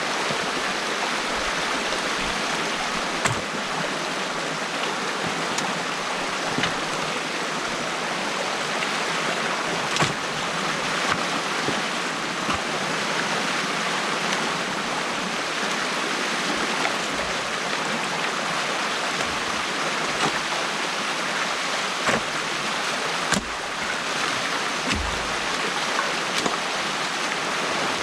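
Stream water rushing steadily through an opened beaver dam, with a few sharp knocks now and then.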